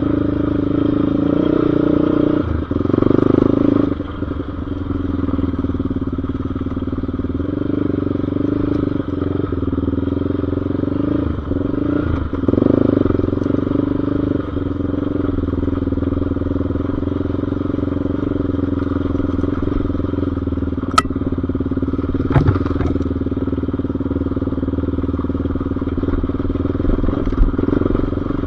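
Off-road engine of a dirt bike or quad running steadily, revving up briefly a few seconds in and again about twelve seconds in, with two sharp knocks about two-thirds of the way through.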